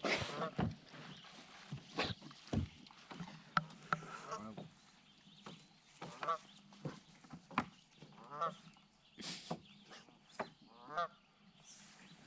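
Geese honking repeatedly, a series of short, harsh calls spaced a second or two apart, mixed with scattered sharp knocks.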